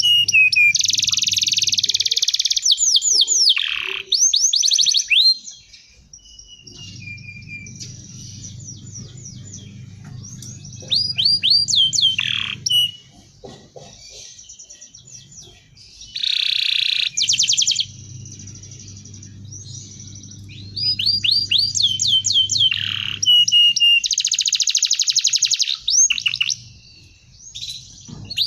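Domestic canary singing: phrases of rapid, repeated downward-sweeping notes and fast rolling trills, a few seconds each, with short pauses between.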